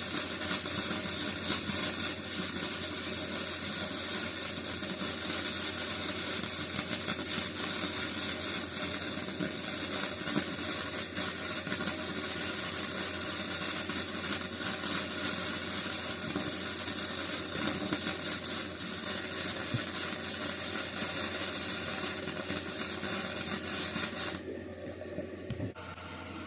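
Gasless flux-cored wire welder arc crackling and hissing steadily as a weave bead is run; the arc cuts off near the end.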